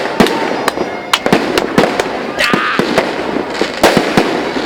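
Fireworks going off in a rapid, irregular barrage of sharp bangs, several a second, with a burst of crackling about halfway through.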